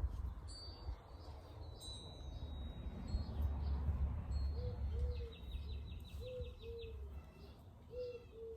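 Wild birds chirping, with a fast trill about five seconds in and pairs of short, lower calls in the second half, over a steady low rumble.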